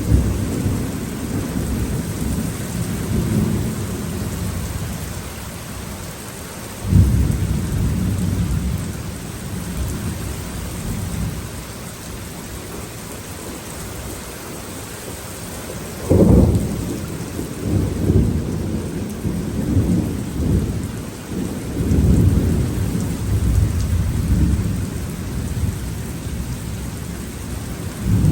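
Thunderstorm: steady rain under rolling thunder, with two sudden loud claps, one about a quarter of the way in and one just past halfway, each trailing off into long rumbling.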